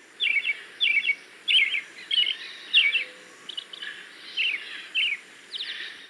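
A thrush singing: a run of short, high chirping phrases, one about every half second.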